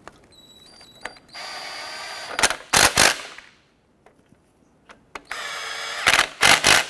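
Power driver spinning in two Torx screws, one after the other: each time a steady whine, then about three loud short bursts as the screw is snugged down.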